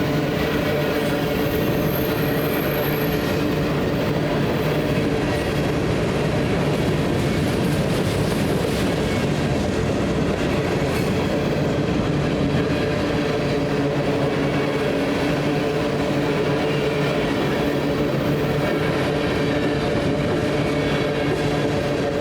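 BNSF freight train rolling past, its railcar wheels on the rails making a steady, unbroken noise.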